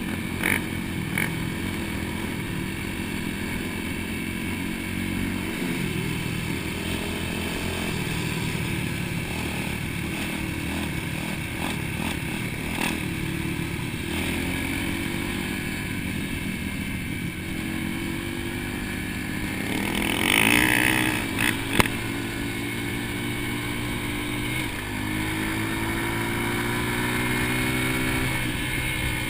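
Dirt bike engine running as it is ridden, its note rising and dropping again and again. About two-thirds of the way through there is a brief louder rising sweep, followed by a sharp click.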